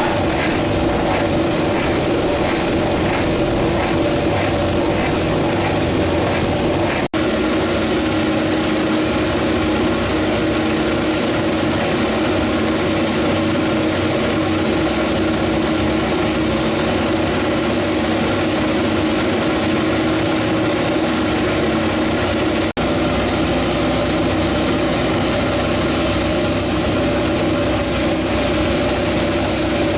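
A MotoGP racing motorcycle engine running steadily at a constant, raised speed, as when a bike is warmed up in the pits. The sound drops out for an instant twice, about a third of the way in and again near three-quarters.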